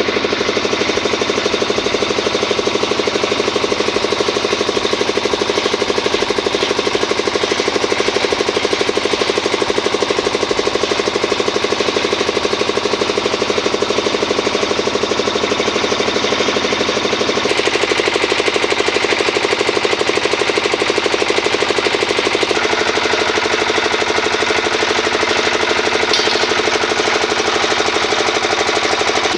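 Engine-driven construction machinery on a bridge repair site, running steadily with a fast, even chatter. The sound changes abruptly twice, about 17 and 22 seconds in.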